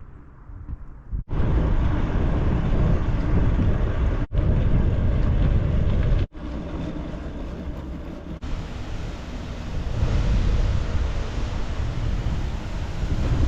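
Wind buffeting the microphone during a bicycle ride, a loud low rumbling rush. It breaks off abruptly and resumes a few times.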